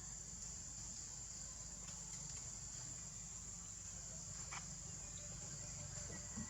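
Steady high-pitched drone of insects such as crickets or cicadas, with one or two faint clicks.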